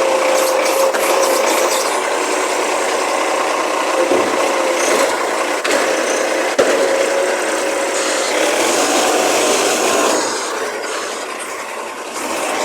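Recycling garbage truck working its hydraulics, a steady whine over scraping, grinding noise, easing off about ten seconds in.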